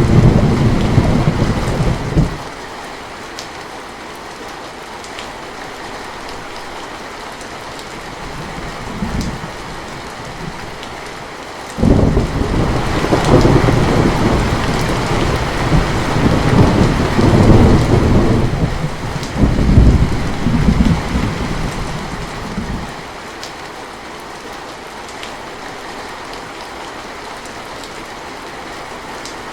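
Steady rain falling, with thunder: a loud rumble over the first two seconds, a brief fainter rumble a little before the middle, and a long rolling rumble with several swells that runs for about ten seconds through the middle, then dies away to rain alone.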